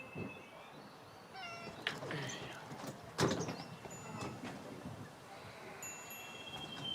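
A cat meowing a few short times, with a sharp knock about three seconds in and faint high ringing tones near the end.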